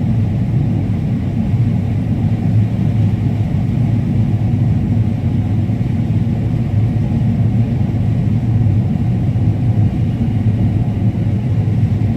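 Combine harvester running steadily while harvesting corn: a continuous low rumble, heard from inside the cab.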